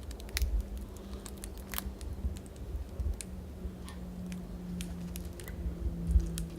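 Irregular sharp clicks and taps of magpies pecking at and flicking seed on a bird feeder, over a faint steady low hum.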